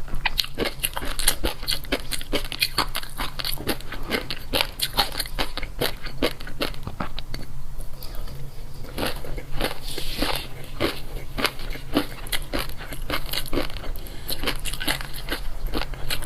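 Close-miked crunchy chewing of food: rapid crunches in quick succession, with a brief pause about eight seconds in before the chewing resumes.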